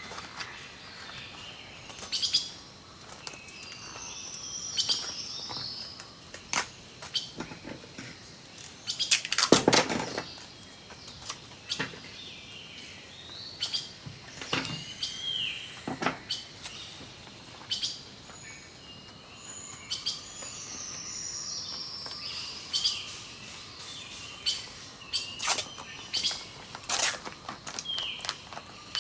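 Birds chirping and calling in short phrases throughout, with scattered sharp clicks and one loud rustling burst about nine to ten seconds in.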